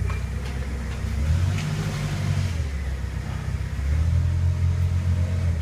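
A low engine rumble that swells louder twice: once a little after a second in, and again from about four seconds in.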